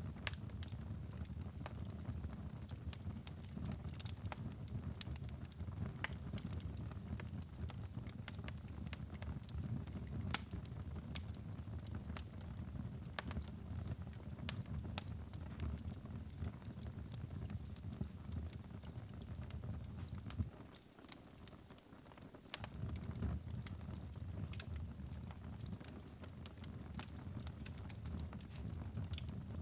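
Fire burning in a fireplace, with a steady low rush and frequent sharp crackles and pops. The low rush briefly drops away about two-thirds of the way through while the crackling goes on.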